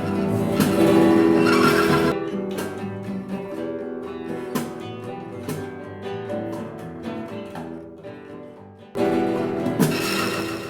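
Rock band playing, led by guitar: a loud passage breaks off about two seconds in, leaving single plucked guitar notes ringing out and fading, then a loud chord comes crashing back in near the end.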